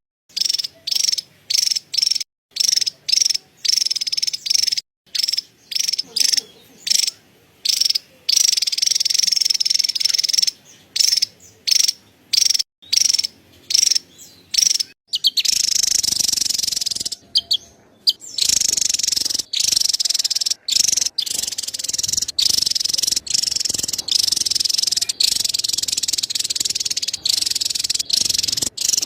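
Javan tesia giving its rapid, high-pitched chattering call, in short runs broken by brief gaps and running more continuously in the second half.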